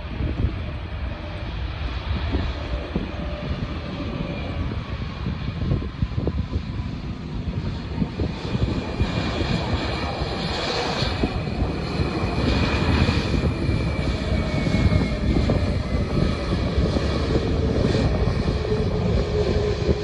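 Airliner's engines on approach: a steady rumble with whining tones that slide down in pitch as it passes, growing louder about halfway through. Wind buffets the microphone.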